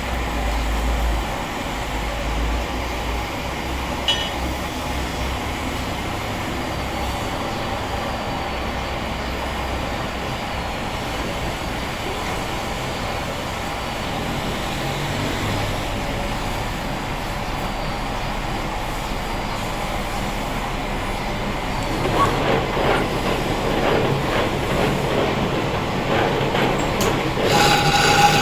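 A power tool working stone: a steady machine noise that grows louder and rougher in the last few seconds.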